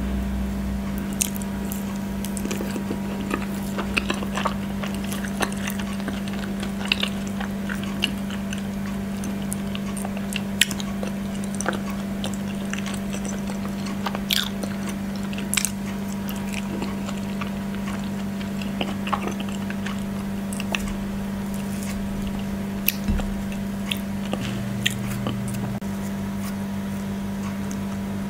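Close-miked eating sounds: chewing and wet mouth sounds from fufu dipped in okra stew and eaten by hand, with scattered small sharp clicks, over a steady low hum.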